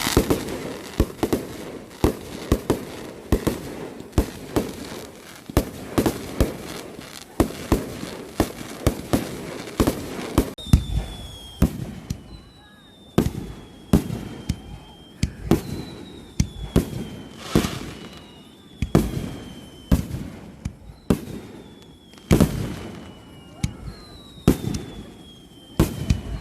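Aerial fireworks going off: a dense, rapid run of bangs and crackles for about the first ten seconds, then slower bangs roughly once a second, many followed by a high whistle that drops slightly in pitch.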